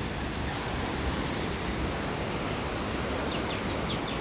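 Steady, even rush of big ocean waves breaking on the beach.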